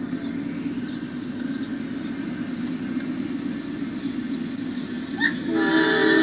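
Low, steady rumble of an approaching Norfolk Southern intermodal train led by a GE Dash 9 locomotive. About five and a half seconds in, the locomotive's air horn starts blowing a loud chord of several notes.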